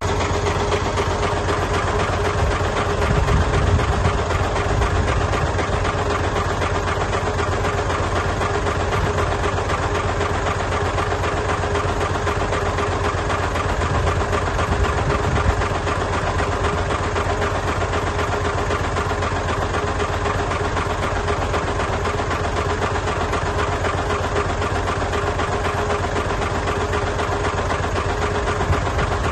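Diesel engine of a heavy earthmoving machine running steadily, with a fast low chugging and a steady whine over it, swelling briefly a few times.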